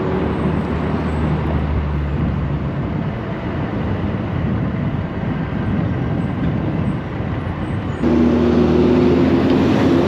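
Street traffic heard from a moving electric scooter: a steady rush of road noise with a low engine drone from nearby vehicles. About eight seconds in it gets louder and a steady droning tone on two pitches sets in.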